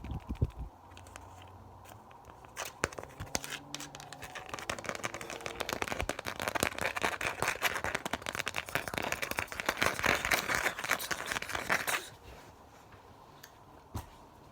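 Rapid, dense crinkling and scratching close to the microphone, an ASMR trigger. It builds from about two seconds in and stops abruptly near the end.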